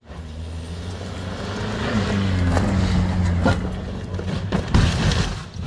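Car engine running and revving as the car drives over rough, muddy ground, with a few sharp knocks between about two and a half and five seconds in.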